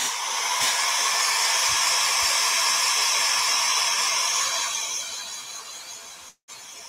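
Handheld dryer blowing air steadily over freshly applied paint to dry it, a smooth rushing hiss that dies away about five seconds in.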